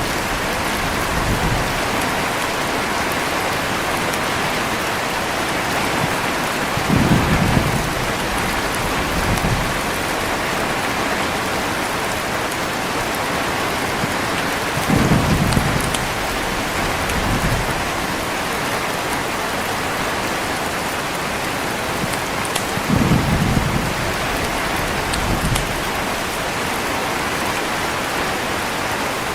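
Heavy rain falling steadily, with low rolls of thunder about every eight seconds, each followed by a smaller rumble.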